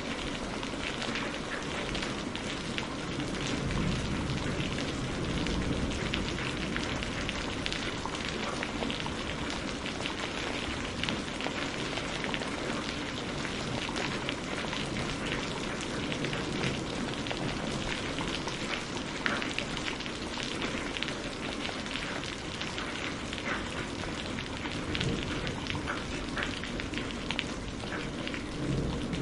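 Steady rain falling and pattering on surfaces, with many close drop ticks and a low rumble underneath.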